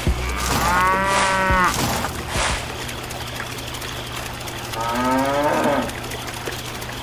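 A cow mooing twice: a longer call about half a second in and a shorter one near five seconds, each rising and falling in pitch, over a steady low hum.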